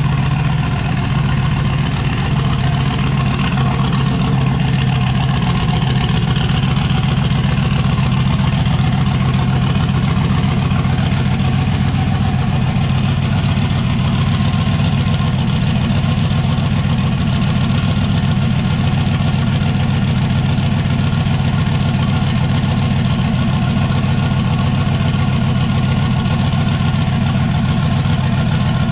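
Turbocharged LS V8 in an S10 pickup idling steadily, with an even, unchanging engine note and no revving.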